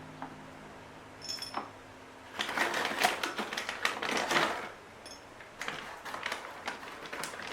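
Rapid runs of small clicks and taps in two spells, with a brief high ring about a second in; soft background music fades out in the first couple of seconds.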